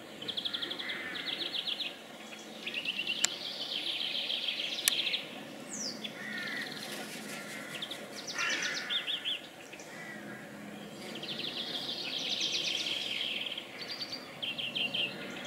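Several songbirds singing, with short, rapidly trilled phrases and a few quick falling notes repeating. Two sharp clicks sound about three and five seconds in.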